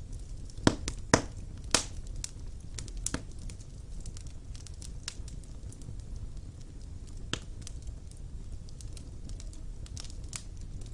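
Wood fire burning in an open fireplace: irregular sharp crackles and pops over a low steady rumble of the flames, with a few louder pops in the first two seconds.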